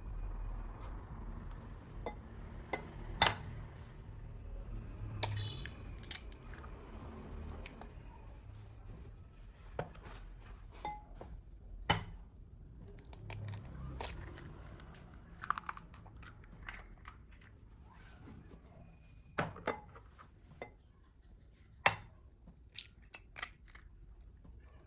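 Kitchen food-preparation sounds: scattered sharp taps and knocks of utensils and dishes, with some crunching and tearing between them. The loudest knocks come about 3, 12 and 22 seconds in.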